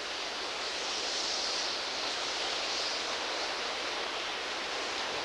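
Hurricane-force wind blowing hard and steadily, a dense rushing hiss that swells slightly about a second in and holds.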